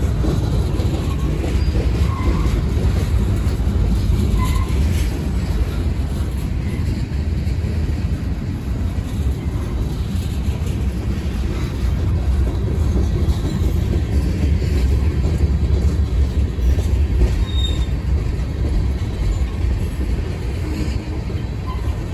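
Freight train cars rolling past: a steady loud rumble of steel wheels on rail, with a few brief, faint wheel squeals.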